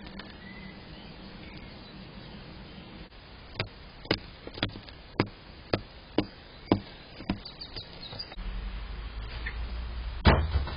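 A series of sharp taps, about two a second, like a bird pecking at a feeder, followed by a low rumble and one loud thump near the end.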